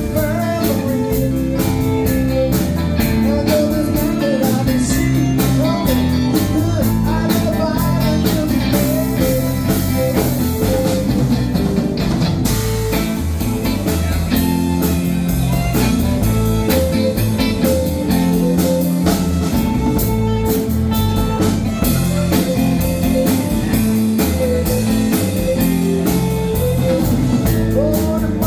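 Live band playing a blues-rock number, with guitar over a drum kit keeping a steady beat.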